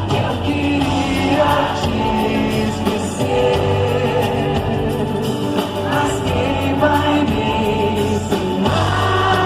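Live band music with singing, recorded at a concert.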